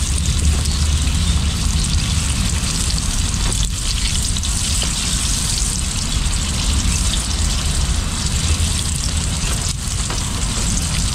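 Floured mullet fillets frying in hot oil, a steady sizzle with a low rumble underneath.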